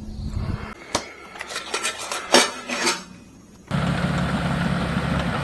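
Scattered clinks and knocks of hard objects being handled. About two-thirds of the way through this gives way abruptly to a steady, engine-like hum.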